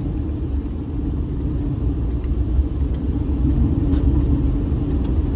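Steady low rumble of a car running, heard from inside the cabin, with a few faint ticks.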